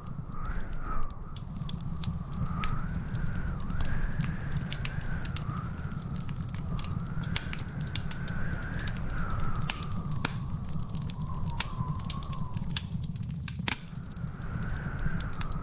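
Wood fire crackling and popping in a fireplace: a steady stream of sharp snaps over a low, constant rumble. A thin high whistle runs underneath throughout, slowly wavering in pitch.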